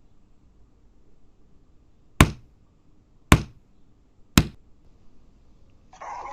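Three sharp knocks about a second apart, each dying away quickly, then a short burst of hissing noise near the end.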